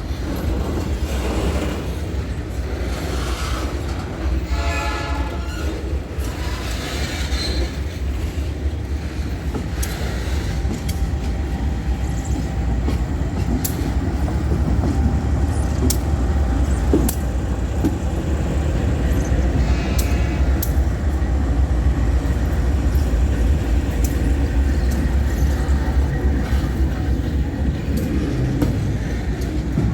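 Loaded freight wagons of a long train rolling past close by: a steady, heavy low rumble with sharp clicks and knocks of the wheels over the rail joints. A short pitched tone sounds about five seconds in.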